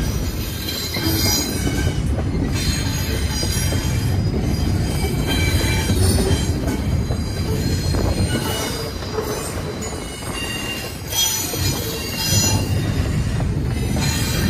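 Double-stack intermodal train of container-laden well cars rolling past, a steady low rumble of steel wheels on rail with high-pitched wheel squeal coming and going.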